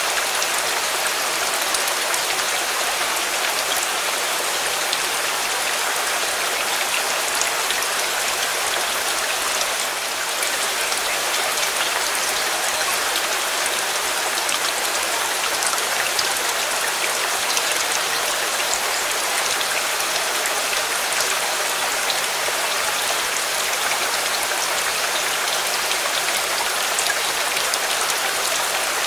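Steady heavy rain, a dense even patter of raindrops hitting a surface.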